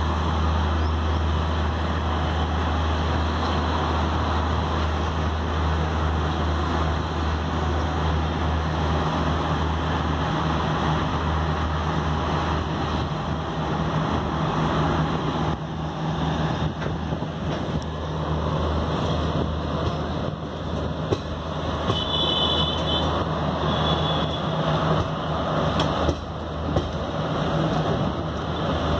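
Steady running noise of a moving express passenger train heard from an open coach door: wheels rolling on the rails, wind, and a low steady hum, growing rougher in the last third.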